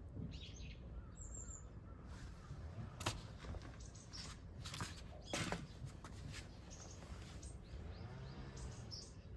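Faint bird calls: short high chirps, with one crow-like caw near the end. Two sharp clicks come a few seconds apart in the middle.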